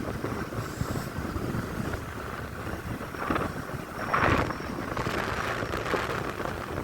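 Steady noise of heavy rain with wind buffeting the microphone, swelling briefly about four seconds in.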